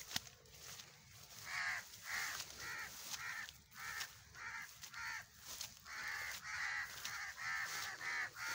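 Birds calling: a run of short, harsh calls repeated about twice a second, with a brief pause midway. A short sharp knock right at the start.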